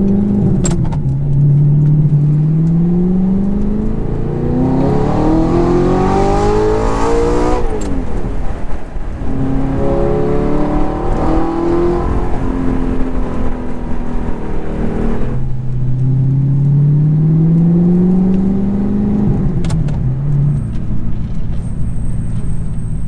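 Audi R8's naturally aspirated 4.2-litre V8 accelerating in repeated high-rev pulls. The engine note climbs steadily through each pull and drops sharply at each shift or lift, with the strongest pull about five to eight seconds in and another near the end.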